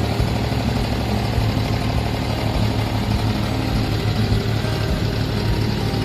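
Abra water taxi's diesel engine running steadily mid-crossing, a low, evenly pulsing rumble.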